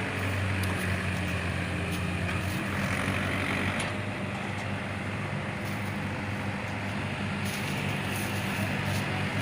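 Mahindra 475 DI tractor's diesel engine running steadily at an even speed.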